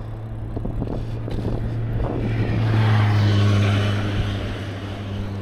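A motor vehicle passing by, its noise swelling to a peak about three seconds in and then fading, over a steady low hum.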